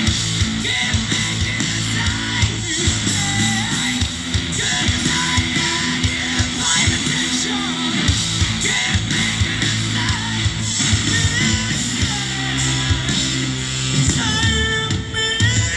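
Live rock band playing loud: electric guitars, bass and drums with a singer, heard as a crowd recording of a concert.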